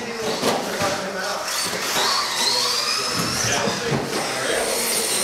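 Radio-controlled race trucks running around the track, their motors whining at high revs; one whine climbs steadily in pitch from about two to four seconds in as a truck accelerates.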